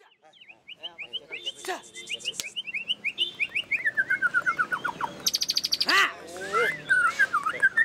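White-rumped shamas singing: quick runs of clear whistled notes, many sliding down in pitch and overlapping, with a harsh buzzy rattle about five seconds in.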